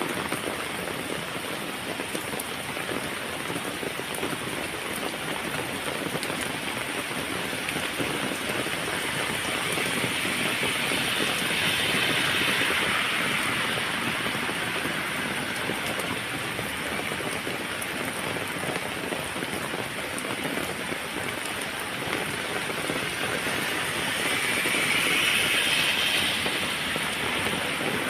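Heavy rain falling steadily, swelling louder twice: once about midway and again near the end.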